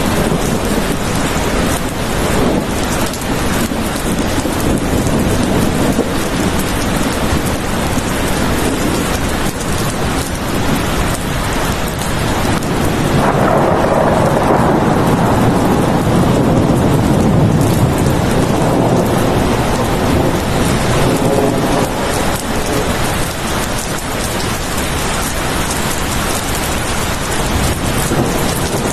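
Steady heavy rain, with a long low rumble of thunder swelling and fading about halfway through.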